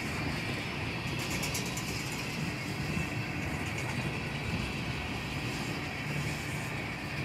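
Tank cars of a freight train rolling slowly past, steel wheels on the rails making a steady rumble, with a short run of light clicking about a second in.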